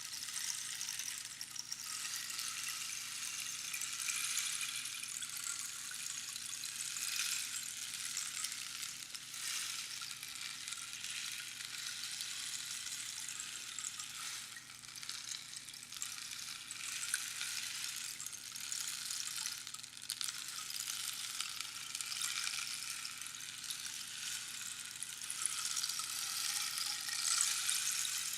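Rainstick with small pebbles or beads trickling down past the pins inside the tube, giving a continuous rain-like hiss. It swells and eases every few seconds and is loudest near the end.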